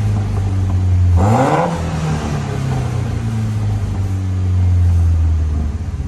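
2008 Mitsubishi Lancer Evolution X MR's turbocharged 2.0-litre four-cylinder, breathing through a cat-back exhaust with mufflers, idling. It is blipped once about a second in, the revs rising and dropping straight back to idle.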